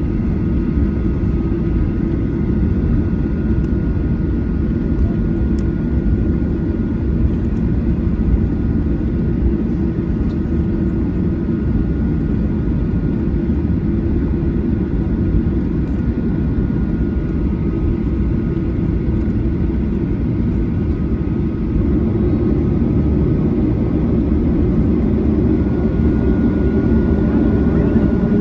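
Boeing 737-800 jet engines heard inside the passenger cabin: a steady, dense roar with thin whining tones above it. Near the end one tone climbs slightly and the sound grows a little louder as the engines pick up power.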